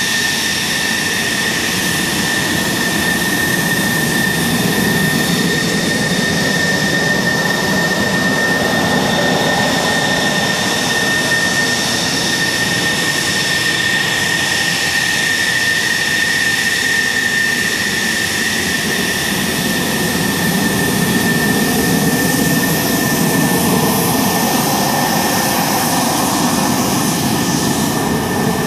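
Military jet engines running with a steady high-pitched whine over a constant rush, swelling a little at times.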